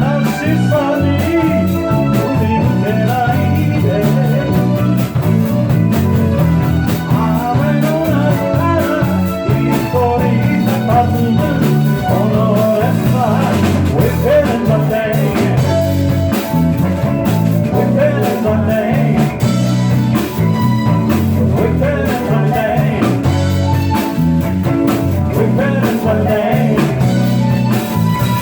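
Live band playing a blues-rock song, with guitar and a melodic lead line over a steady low accompaniment.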